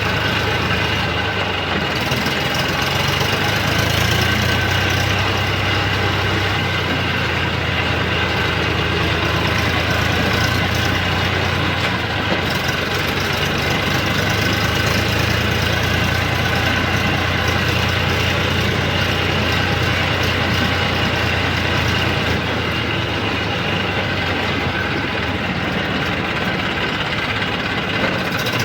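Eicher 333 tractor's three-cylinder diesel engine running steadily at an even speed while the tractor is under way.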